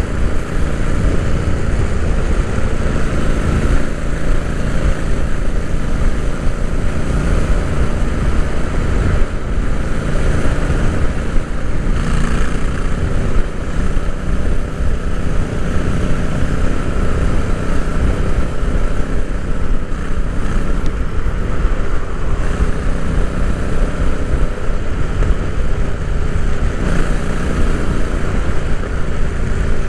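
Royal Enfield Interceptor 650's parallel-twin engine running steadily under way, heard from onboard, with a constant rush of wind and road noise over it.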